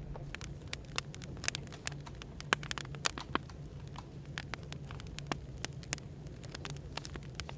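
Burning firewood crackling, with irregular sharp pops several times a second, over a steady low hum of café background noise.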